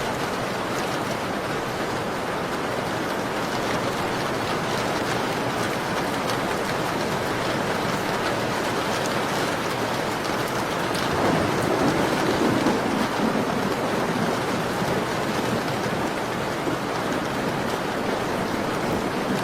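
Steady rain falling against a window pane, a dense even patter with scattered small drop ticks. It swells louder for a couple of seconds about halfway through, then settles back.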